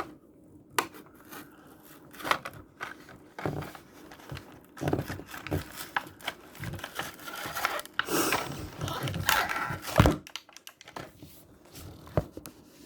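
A toy blister pack being torn open by hand: plastic crinkling and cardboard tearing in irregular rustles and clicks, busiest and loudest near the end.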